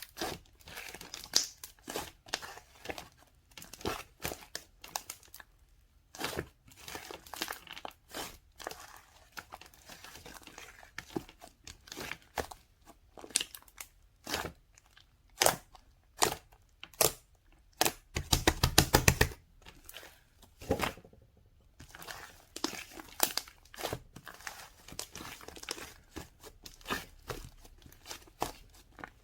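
Irregular crinkling, crackling and tearing sounds with scattered sharp clicks, like crinkly material being handled; about two-thirds of the way through comes a dense, fast run of clicks lasting about a second.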